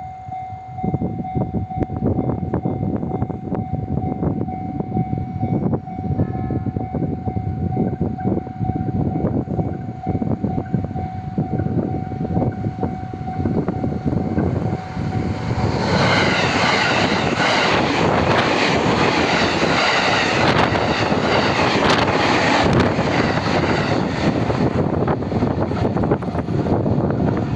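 A Japanese level crossing alarm rings steadily while an E501 series electric train approaches. From about halfway through, the train passes over the crossing with loud wheel-and-rail running noise. The alarm stops near the end.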